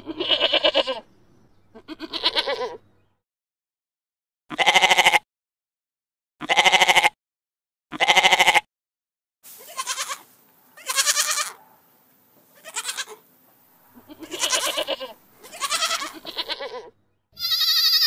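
Goats bleating: about a dozen separate wavering bleats, each under a second long, with short pauses between, and a higher-pitched bleat near the end.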